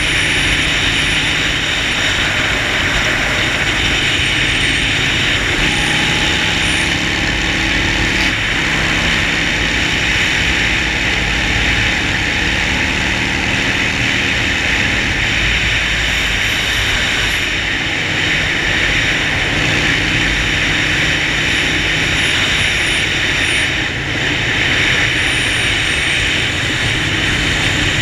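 Harley-Davidson Sportster Forty-Eight's air-cooled V-twin running while riding, under a steady rush of wind and road noise. The engine note steps up and down in pitch a few times.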